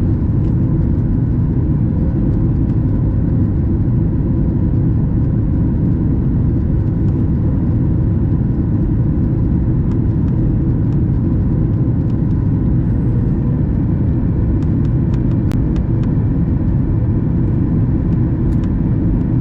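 Steady in-flight cabin noise of a Boeing 737 MAX 8: a constant low rumble of its engines and the airflow past the fuselage. A few faint clicks come about fifteen seconds in.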